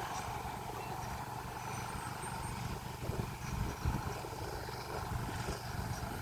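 Sugar cane train locomotive's engine running, a steady low rumble.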